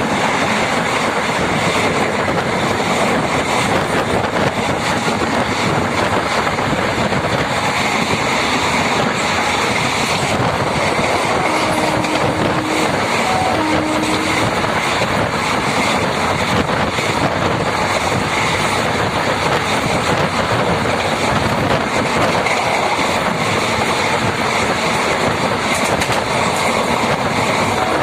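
MEMU electric passenger train running along the track, a steady loud rumble of wheels on rail with some clickety-clack.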